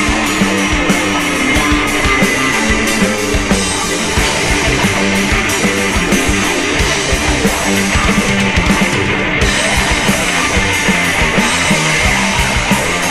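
Heavy rock music: electric guitars and a drum kit playing loud and steady without a break.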